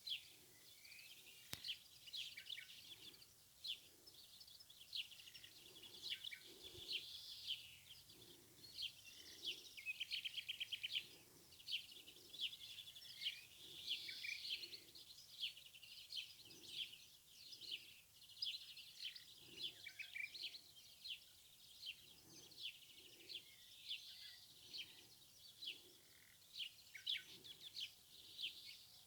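Faint chorus of wild birds chirping and singing, with many short rapid chirps and trills overlapping throughout. Soft low pulses repeat about once a second underneath.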